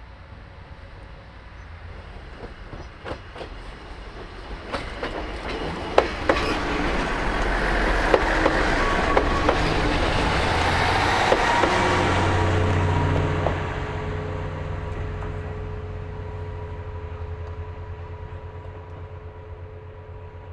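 Diesel railcar passing by, its wheels clacking over rail joints as it draws level. It is loudest about halfway through, then its engine's steady drone fades as it moves away.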